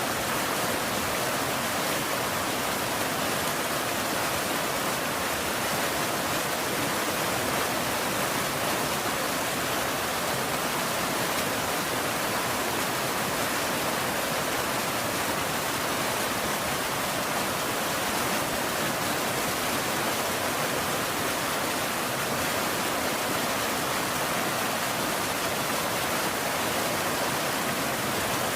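Steady rain falling, an even hiss with no thunder or separate drops standing out.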